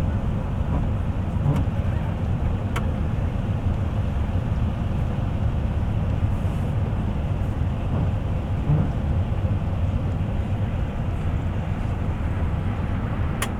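Bus in motion heard from inside the cabin: a steady low rumble of engine and road noise, with a few faint clicks and rattles.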